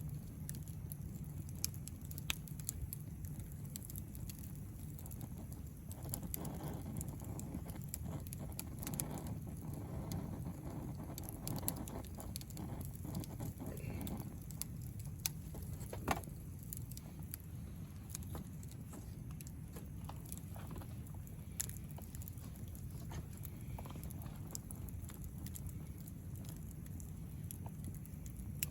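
Wood fire crackling, with scattered pops and snaps over a low steady rumble.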